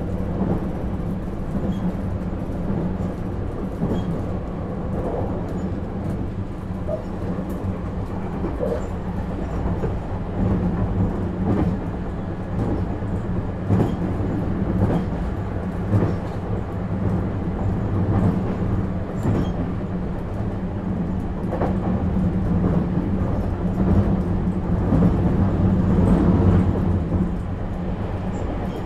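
JR East 651 series electric train running at speed, heard from inside a passenger car: a steady low rumble of wheels and running gear with occasional knocks over rail joints, growing a little louder near the end.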